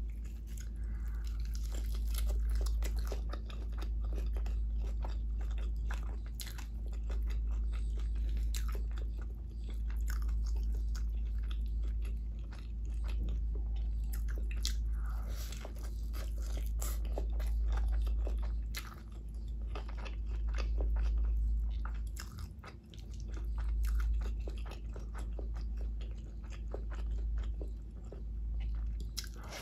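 Close-miked chewing and crunching, with many sharp mouth clicks: a person eating crisp-edged fried egg, bread and biryani by hand, over a steady low rumble.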